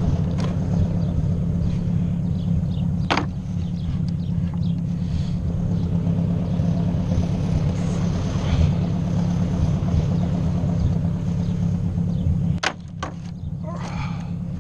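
Ford 600 tractor's four-cylinder engine running steadily under the operator, with a sharp clack about three seconds in. Near the end the engine goes quieter and a couple of knocks are heard.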